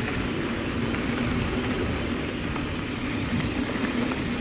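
Mountain bike rolling downhill on a dirt trail: steady rumble and rattle of tyres and frame with wind on the microphone. Over it, a low humming tone from the bike's brakes comes and goes; the rider calls these brakes loud and obnoxious despite a new rear brake.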